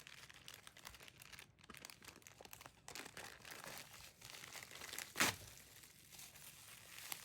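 Packaging being handled and crinkled during an unboxing: faint rustling and small clicks, with one sharper click about five seconds in.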